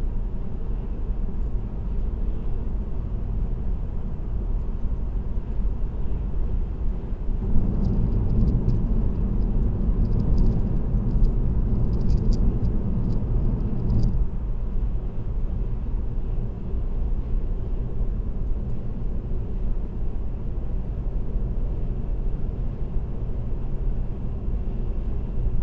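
Steady low road and tyre rumble of a car cruising on an expressway. It grows louder for several seconds about a third of the way in, with a few faint high ticks, then settles back to its earlier level.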